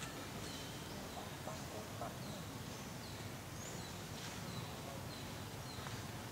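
Forest ambience: a steady low background rumble with a few short, high chirps from small birds, each falling in pitch, scattered through.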